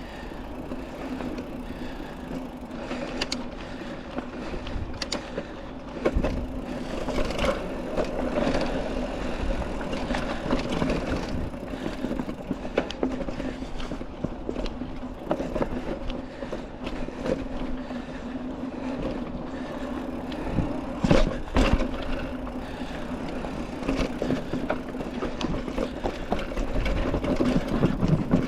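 Mountain bike being ridden along a dirt trail, heard from an on-board action camera: steady tyre and drivetrain running noise, with sharp clunks and rattles as the bike goes over bumps and roots. The loudest knocks come a little after two-thirds of the way through.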